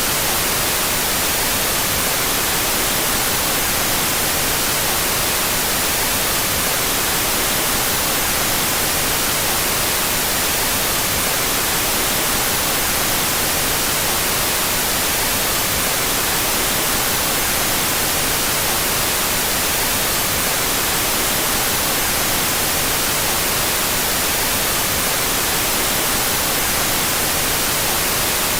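Steady white noise, an even hiss strongest in the high end, playing at a constant level with the two stereo channels out of phase.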